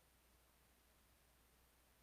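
Near silence: faint steady hiss with a low electrical hum.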